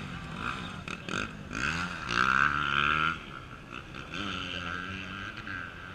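Off-road motorcycle engines revving, the pitch rising and falling in repeated surges, loudest between about two and three seconds in.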